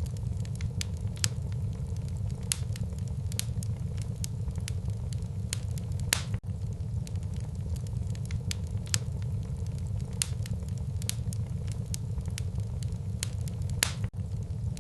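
Wood fire burning in a fireplace: a steady low rumble of flames with frequent sharp crackles and pops of burning wood, the loudest pops about six seconds in and near the end.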